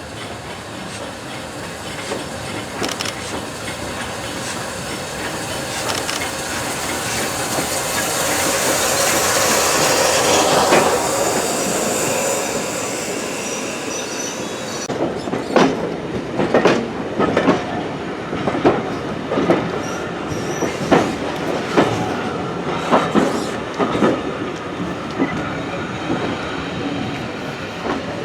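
A train running on the rails: a steady rumble builds to a peak partway through. It then gives way to a rhythmic clickety-clack of wheels knocking over rail joints, about once a second.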